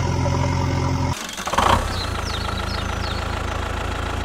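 Small engine idling steadily, with a sudden break and short burst a little over a second in, then idling again with faint high chirps.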